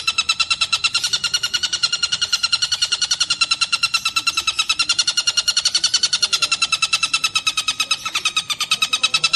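Tengkek buto kingfisher calling in a rapid, steady rattling chatter of evenly repeated notes, about eight or nine a second, with a short falter near the end.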